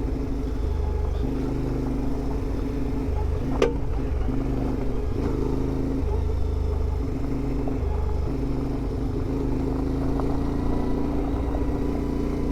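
CFMoto 450MT adventure motorcycle's parallel-twin engine running under way, the throttle rolling on and off every second or two. A single sharp knock comes about three and a half seconds in.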